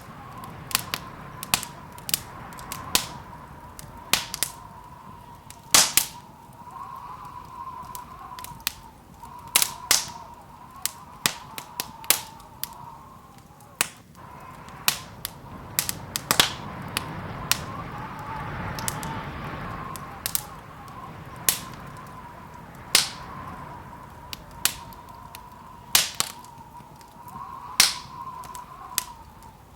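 Wood fire crackling, with irregular sharp pops and snaps, a few of them loud, over a soft rushing of flames and a faint wavering whistle underneath.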